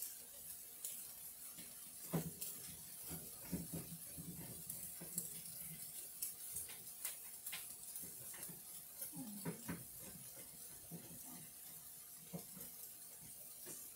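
Quiet sizzling of tofu and bell-pepper skewers frying on a griddle, a steady hiss, with scattered soft knocks and clinks of kitchenware.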